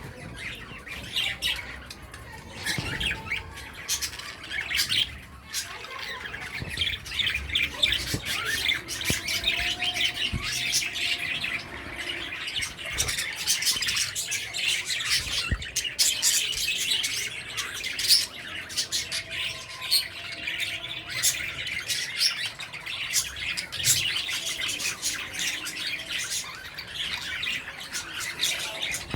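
Aviary flock of pet budgies, cockatiels and finches chattering and chirping continuously. The calls form a dense mix, with occasional louder, sharper squawks.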